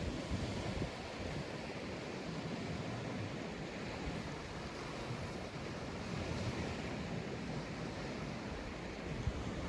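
Sea waves breaking and washing on a sandy beach in a steady wash of surf, with some wind rumble on the microphone.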